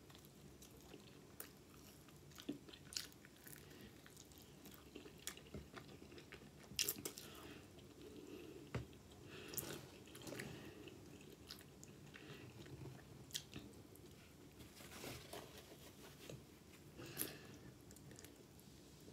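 Quiet eating of fried chicken wings: biting and chewing, with many short, sharp mouth clicks and smacks scattered throughout.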